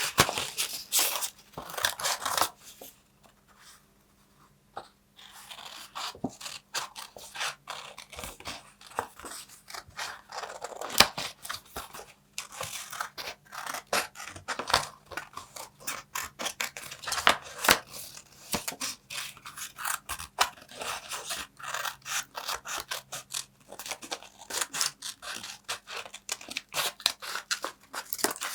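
Paper being cut with scissors: dense, crisp snipping and crackling, with a pause of about two seconds a few seconds in.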